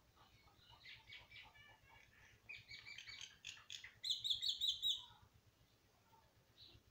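Small birds chirping in quick runs of short high notes, building to a loud rapid series of about six sharp chirps about four seconds in, then stopping.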